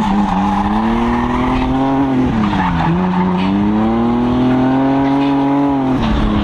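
Car engine revving hard with its tyres squealing through a run, its pitch climbing and falling in long swells, with two sharp drops, about a third of the way in and near the end.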